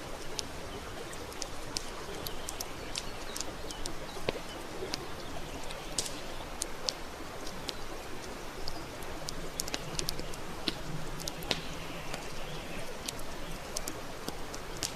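Campfire crackling: irregular sharp pops and snaps of burning wood over a steady hiss.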